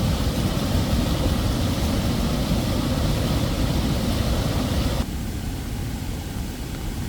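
Steady rushing of a fast, flood-swollen stream, heavy in the low end. About five seconds in, the sound abruptly drops and turns duller.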